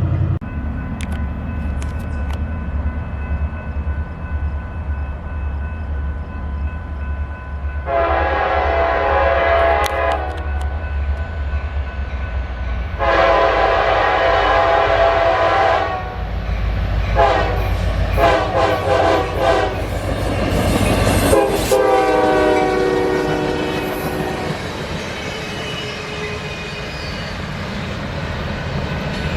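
Passing train's diesel locomotive sounding its multi-tone air horn over a steady low engine rumble: two long blasts, a few short ones, then a long blast whose pitch falls as the locomotive goes by, the long-long-short-long pattern of a grade-crossing warning.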